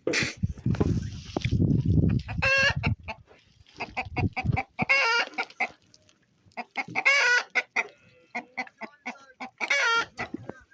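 Chickens clucking, with four short, high-pitched calls spaced two to three seconds apart among quick clucks. A low rustling rumble sounds under the first couple of seconds.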